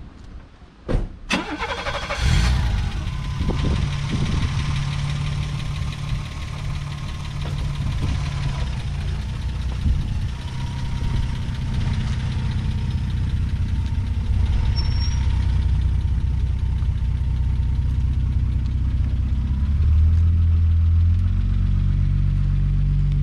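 1985 BMW 325e's 2.7-litre M20B27 straight-six starting: two sharp clicks, then the engine catches about two seconds in and settles into a steady idle. About twenty seconds in its note deepens and grows louder.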